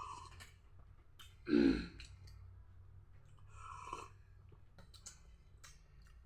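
Eating sounds: scattered wet mouth clicks and chewing, with one short low vocal sound, like a grunt or burp, about one and a half seconds in.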